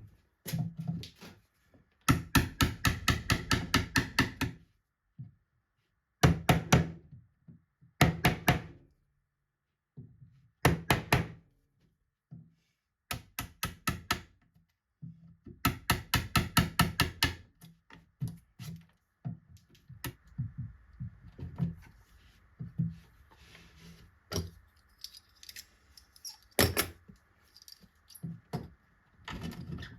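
Short runs of quick, even knocks, about six a second, separated by pauses, with scattered lighter ticks and one louder single knock near the end.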